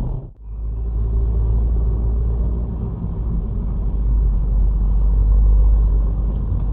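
Steady low rumble of car engine and road noise as heard from inside a moving car by a dashcam, starting after a brief gap about a third of a second in.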